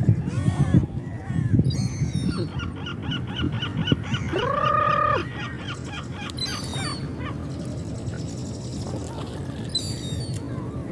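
Seagulls calling: a fast run of repeated calls in the middle, with one long held call about four seconds in, and high squeals here and there, over a steady low rumble.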